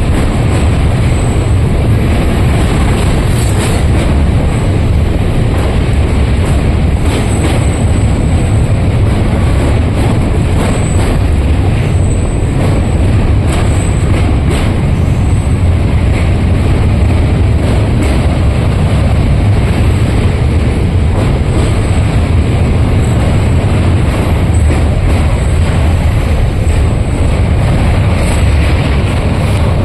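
A train running past with a steady, loud, heavy rumble and a few faint clicks.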